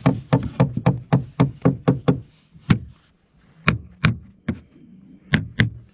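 Hammer blows nailing fibre-cement artificial slates: a quick run of sharp strikes, about four a second for two seconds, then scattered single knocks.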